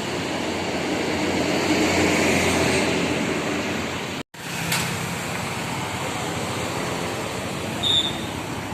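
Steady rumble and hiss of a passenger train and station, cut off briefly about four seconds in and then resuming, with a short high beep near the end.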